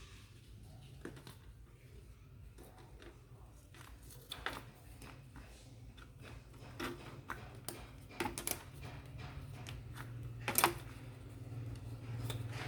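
Scattered light clicks and taps of a disassembled mini ceiling fan's plastic parts and wires being handled, with a few sharper knocks, the loudest about ten and a half seconds in. A low steady hum runs underneath and grows louder near the end.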